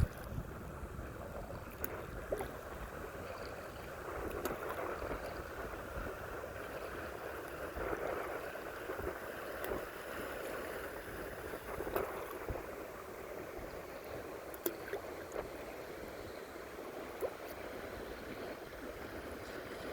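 Steady rush of fast-moving river water around a kayak, with a few light knocks.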